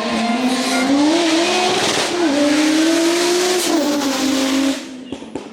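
Rally car engine at high revs under hard acceleration, its pitch climbing, dipping briefly about two seconds in and climbing again, before the sound drops away sharply near the end.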